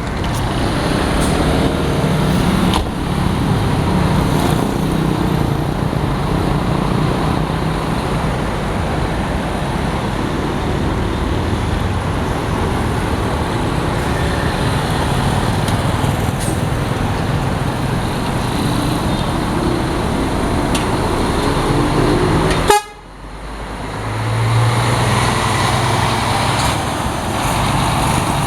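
Bus and road-traffic noise with an engine running steadily. About three quarters of the way through, the sound drops out abruptly for a moment and comes back with a steadier low engine hum.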